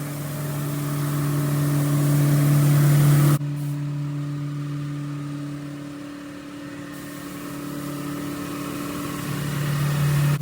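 Steady machine hum with a rushing noise that swells for about three seconds, cuts off abruptly, then slowly builds again near the end.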